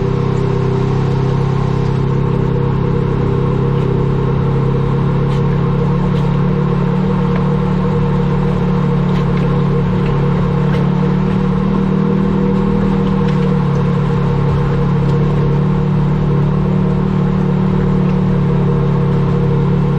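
A vehicle's engine running steadily with an even, low drone, with a few faint ticks and clicks on top.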